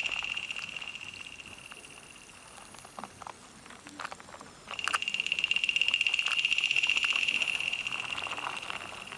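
A frog trilling: a high, rapidly pulsed trill that fades away over the first two seconds, then starts again abruptly about halfway through and slowly fades. A few faint clicks fall in the quiet gap between.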